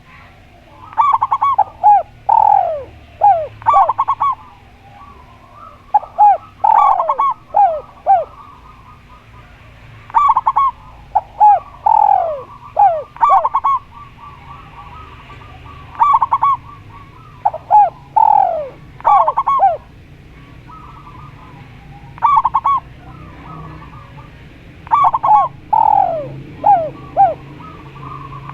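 Doves cooing in repeated phrases of several short falling notes, a new phrase every few seconds, with a fainter rapid trill between phrases.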